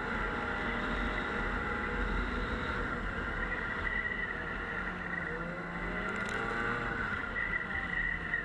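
Snowmobile engine running under way, its pitch dipping and rising again with the throttle about halfway through.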